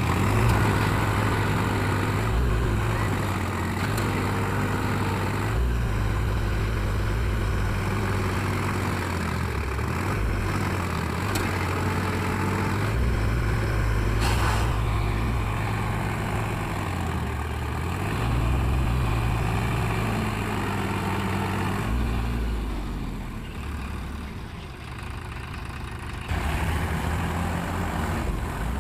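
Tractor diesel engine running under load, its pitch dipping and rising a few times, as tractors work to pull a tractor out of deep mud.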